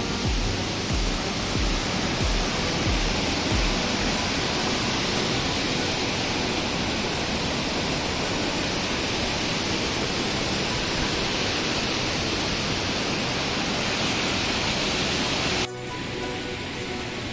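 Steady rushing of a waterfall, loud and even, with background music over it that has a low beat in the first few seconds. The water noise cuts off abruptly near the end, leaving the music over a softer hiss.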